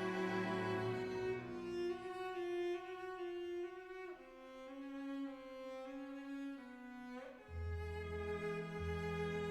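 Background music of bowed strings, violin and cello playing slow, held notes. A low bass part comes in near the end in slow pulses.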